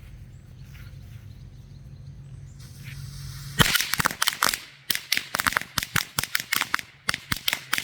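A string of Lady Cracker firecrackers going off: a rapid, irregular chain of sharp cracks, several a second, starting a little over halfway in with the loudest bang first.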